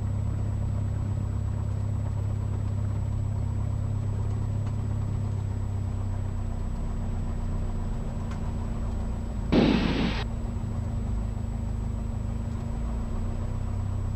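Cessna 172's four-cylinder Lycoming engine running steadily at low power while the plane taxis after landing. A short wavering burst of sound cuts in about two-thirds of the way through.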